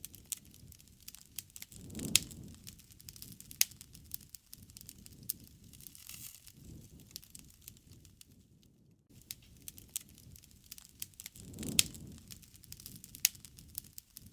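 Wood fire crackling, with sharp, irregular pops over a low rumble of flame. The rumble swells twice, about two seconds in and near the end, each time with a loud pop.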